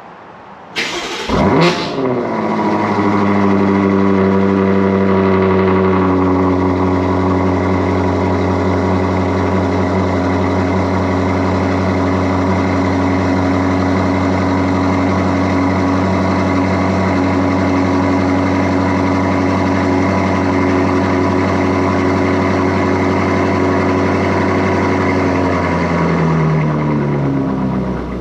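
2024 BMW M8 Competition's twin-turbo 4.4-litre V8 cold-starting through an Armytrix valved exhaust with catless secondaries and the valves open. It cranks and flares loudly about a second in, then holds a steady fast cold idle that drops to a lower idle near the end.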